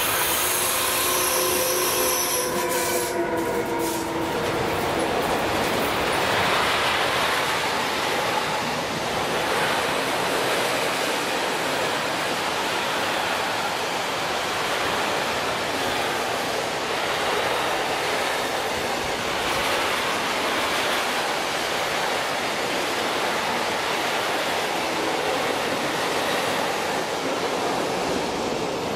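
An electric locomotive passes with a long intermodal freight train. A steady whine is heard in the first few seconds as the locomotive goes by, then the even rumble and rattle of the container and tank wagons rolling past on the rails.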